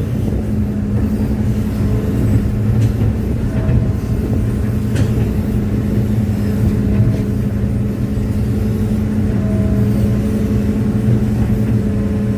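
Excavator's diesel engine running steadily, a loud, even drone with a constant low hum and a higher steady tone over it.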